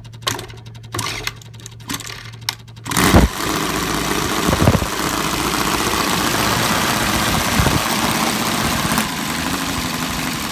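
Arien seven-cylinder model radial engine restarting hot: a few irregular pops, then about three seconds in it fires and catches, running steadily and loudly. The engine is brand new and set rich on the top end.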